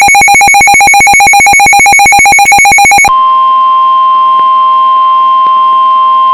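Weather radio alert signalling: a rapidly pulsing, buzzy electronic tone cuts off about three seconds in. It is replaced by the steady single-pitch NOAA Weather Radio warning alarm tone, which announces a new warning.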